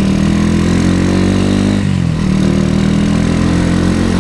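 Classic Honda CB motorcycle's single-cylinder engine running under way, heard from the rider's seat. Its engine speed drops about two seconds in, settles steady again, and drops once more near the end.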